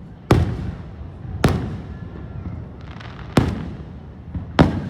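Fireworks shells bursting overhead: four sharp booms about one to two seconds apart, each trailing off in a rumbling echo.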